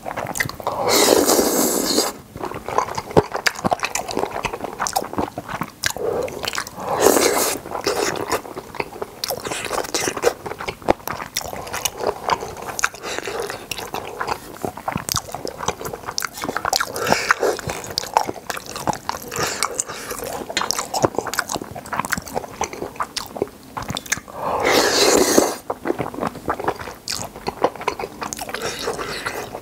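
Close-miked wet chewing of boneless chicken feet and Chinese glass noodles, with a constant run of small smacking clicks. Three louder rushing sounds of about a second each come near the start, about seven seconds in and about twenty-five seconds in.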